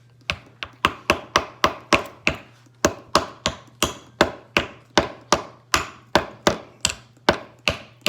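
A child's hammer tapping a short nail into the wooden axle of a toy truck kit: quick, light, even blows, about three a second, with a brief pause a couple of seconds in.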